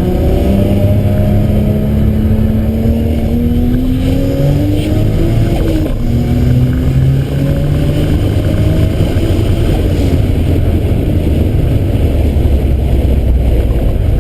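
Car engine pulling hard under load, its pitch climbing steadily, dropping at an upshift about five and a half seconds in, then climbing again through the next gear.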